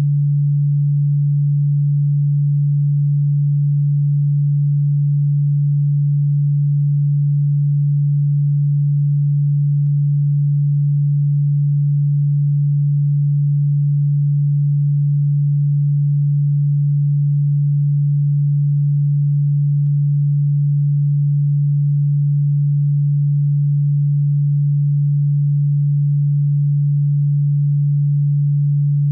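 Electronically generated pure sine tone, played as a supposed anti-cockroach repellent sound. It is one steady, unchanging low hum, not ultrasonic at all.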